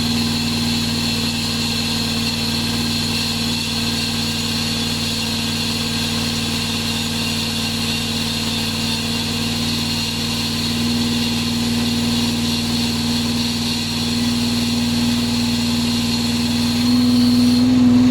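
Hydraulic diamond chain saw rig running steadily, a constant mechanical hum with a strong low tone. Its pitch steps up slightly partway through and again near the end, where it grows louder.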